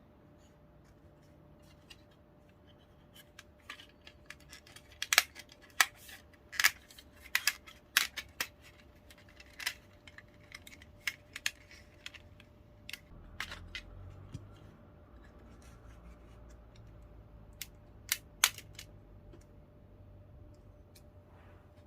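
Irregular sharp clicks and light knocks of small plastic model-train parts being handled, clustered about five to nine seconds in and again briefly near the end, over a faint steady hum.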